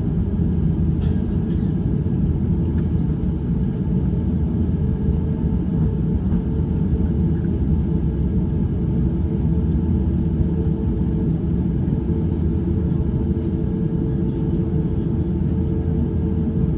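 Steady low rumble inside the cabin of an Airbus A350-900 with Rolls-Royce Trent XWB engines, taxiing on the ground at an even level, with a few faint clicks.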